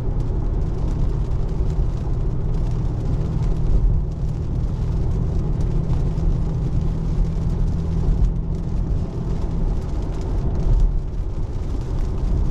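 Steady road noise inside the cabin of a Tesla Model 3 electric car: tyres rolling on wet, rough pavement, a continuous low rumble with hiss above it.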